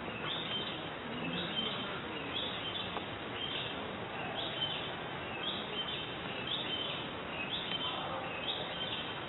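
A bird chirping, one short high call about once a second, over steady outdoor background noise.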